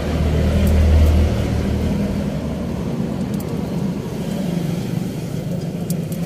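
A motor vehicle engine running with a steady low hum, swelling louder for about a second near the start before settling back.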